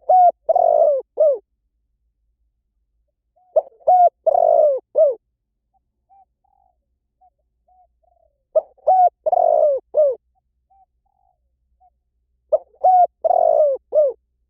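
Spotted dove cooing: four repeated phrases of several low coos each, about four seconds apart, with soft short notes between them.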